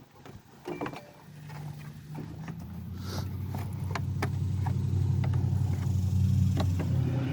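A motor vehicle's engine running with a steady low hum that grows louder over several seconds, over scattered clicks and knocks of parts and tools being handled.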